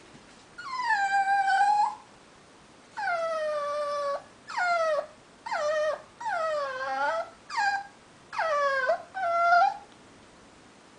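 A pet dog vocalizing in a run of about eight drawn-out whining, howl-like calls, most sliding down in pitch, the first two long and the rest shorter; this is her morning 'chatting' to her owner.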